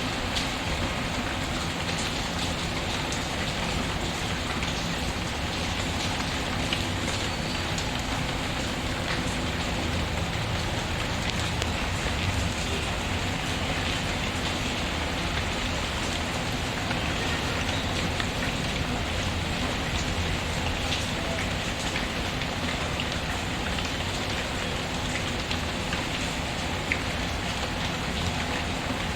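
Steady rain pattering on a surface, with scattered small crackles from a wood fire in a fireplace.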